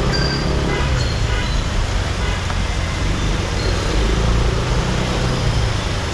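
Motorbike riding through dense city traffic: a steady rumble of engines and road noise, with a few short high-pitched tones in the first second or so.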